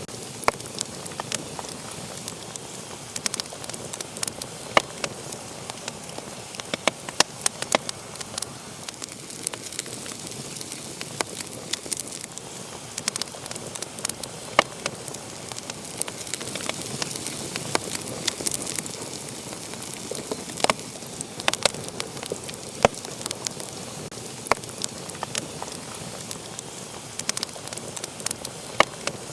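Wood fire burning with a steady hiss and frequent sharp, irregular crackles and pops.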